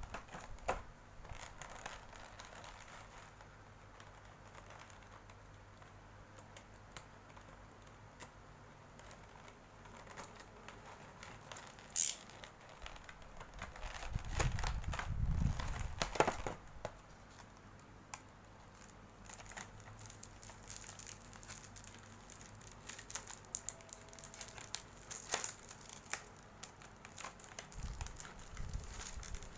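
Plastic packaging being handled and crinkled while a figure is unpacked: scattered rustles and small clicks, with a couple of louder low bumps, one about halfway through and one near the end.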